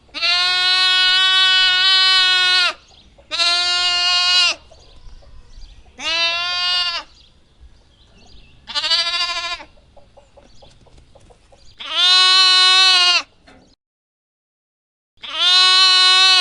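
Lamb bleating: six separate high calls with short pauses between, the first about two and a half seconds long and the rest about a second each, the fourth wavering in pitch.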